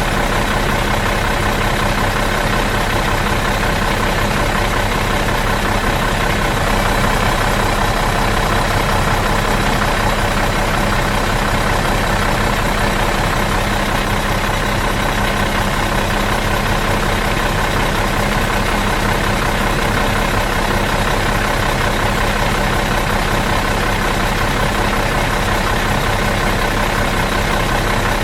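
Bus engine idling steadily in neutral, an even, unchanging drone.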